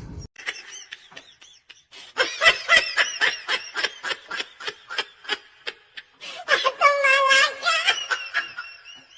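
Laughter in a long run of quick, short pulses, rising into a higher, fuller stretch of laughing near the end.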